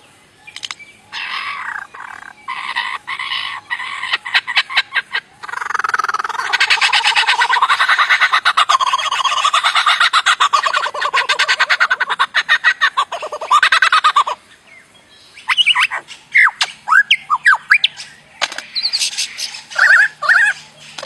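A songbird giving a long harsh, rapid rattling call in several stretches, the longest running for about eight seconds. Past the middle it switches to short, sharp whistled notes and swooping chirps.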